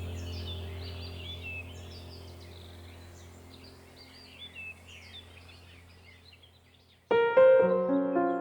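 Songbirds chirping and warbling over a steady low hum, fading out gradually. About seven seconds in, soft piano music starts suddenly.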